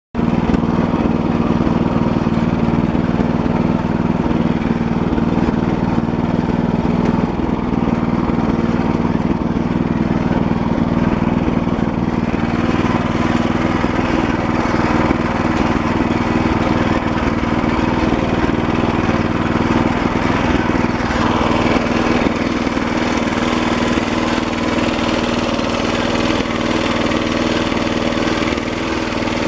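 Walk-behind tractor engine running steadily.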